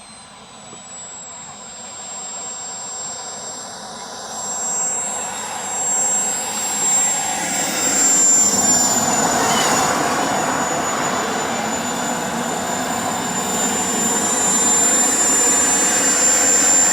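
RC model jet's turbine engine running with a high, steady whine over a rushing noise, growing steadily louder as it comes closer.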